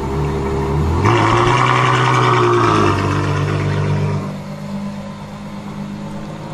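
A supercar engine revving hard from about a second in, its pitch shifting in steps, then easing off to a quieter, steady note about four seconds in.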